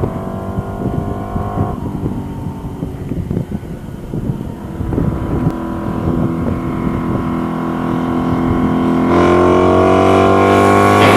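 Honda V65 Magna's V4 engine through a single-pipe Mac aftermarket exhaust, running with its pitch rising slowly over several seconds, then stepping louder and higher about nine seconds in.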